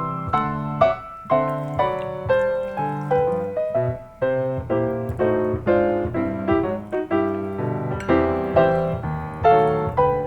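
Background piano music, a light melody of struck notes over a steady accompaniment.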